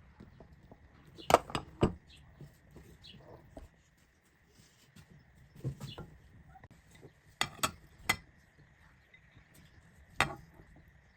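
Kitchen utensils clinking and knocking against dishes or pots: a few sharp clinks in small clusters, with pauses between.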